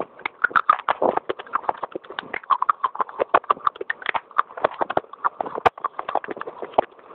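Fast, crisp crunching of baked clay pot pieces being bitten and chewed, a dense run of sharp, irregular cracks several times a second.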